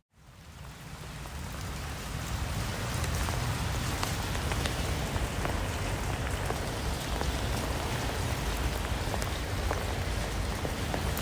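Steady rain falling, with scattered individual drops ticking through it; it fades in from silence over the first couple of seconds.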